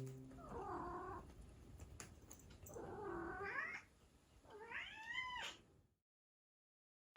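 Domestic cat meowing three times, each call drawn out for about a second, the last one rising and then falling in pitch.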